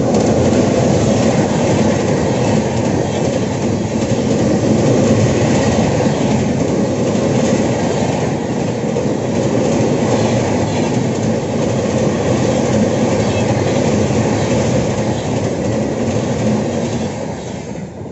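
Indian Railways WAP-7 electric locomotive and its passenger coaches passing close at speed: a loud, steady rush of wheels on rail with clattering over the track. The sound fades near the end as the last coach goes by.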